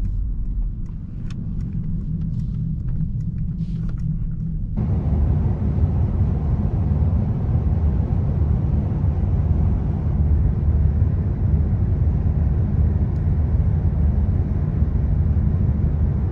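2024 Mercedes-AMG S63 driving at night: a steady low rumble of engine and road. About five seconds in, the sound abruptly steps up to a louder, fuller rush of road and wind noise that holds steady.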